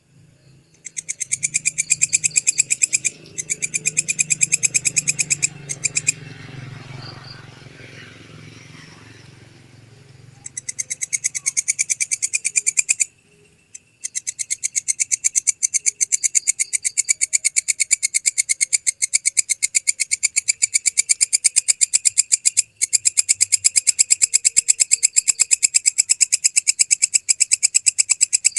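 Walang kecek (belalang kecek) katydid stridulating: a loud, high, rapid ticking trill in runs of a few seconds, quieter for a few seconds about a third of the way in, then almost unbroken to the end.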